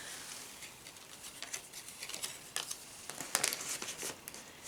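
Paper being handled: light rustling and crinkling with scattered small ticks. It comes in a busier cluster about three and a half seconds in.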